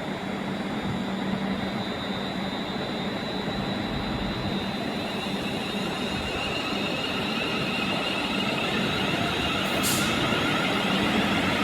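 A train at the station running with a steady mechanical hum and noise, slowly growing louder, with a brief hiss about ten seconds in.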